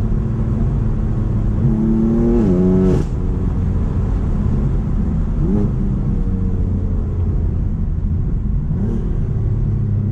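BMW M4's twin-turbo inline-six through a straight, decat Akrapovic exhaust, pulling in gear with rising revs, then upshifting about three seconds in with a sharp drop in pitch. After that it runs at lower revs with a couple of brief rises.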